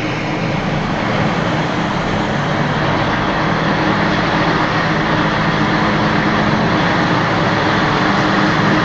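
Diesel train running, heard from on board: a steady rumble of wheels on track and rushing air under a low engine drone, growing slightly louder.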